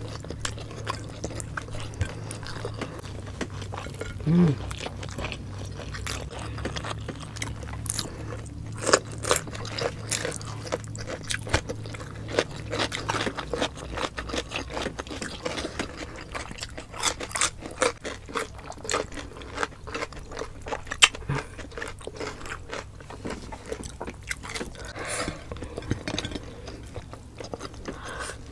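Close-up mouth sounds of two people eating by hand: wet chewing and lip smacks on braised pork belly and rice, with crisp crunches of raw cucumber. A brief hummed voice sound about four seconds in.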